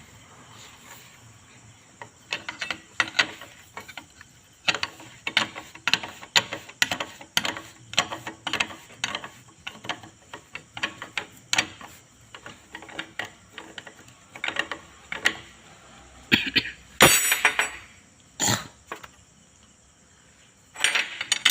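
A hand ratchet wrench clicking through repeated strokes as bolts on a car's power steering rack are worked, starting about two seconds in, with a louder metallic clatter of tools near the end.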